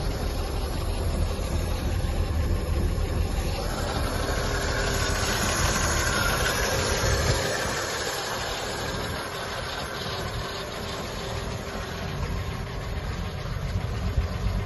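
1933 Chevrolet Master's straight-six engine running steadily at idle; about halfway through it gets a little quieter and loses some of its low rumble.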